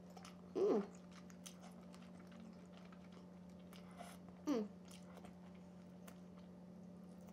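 Quiet wet chewing and mouth clicks from eating king crab meat dipped in creamy alfredo sauce, with two short hums falling in pitch, about half a second in and again about four and a half seconds in.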